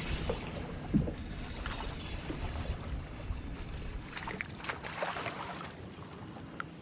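Wind and water noise around a small fishing boat on the water, with a single knock about a second in and a run of short clicks and clatters between about four and six seconds.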